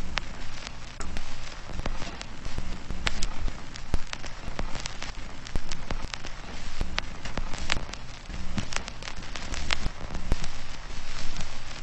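Steady patter of rain, dense with many small sharp ticks, over a low rumble.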